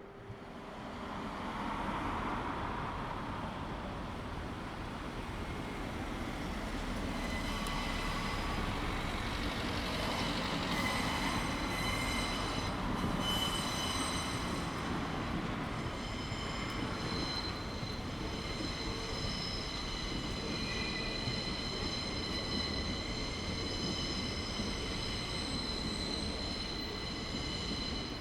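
A steady rumbling noise that swells up over the first two seconds, joined from about eight seconds in by several high, sustained squealing tones.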